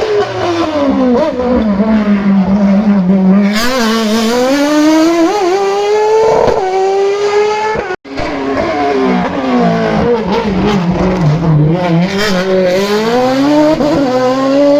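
Race car engine at a hill climb: the revs drop as the car slows, then climb steadily as it accelerates away, with a brief step in pitch at a gear change. About eight seconds in the sound cuts off abruptly and restarts, and a car's revs again drop and then rise.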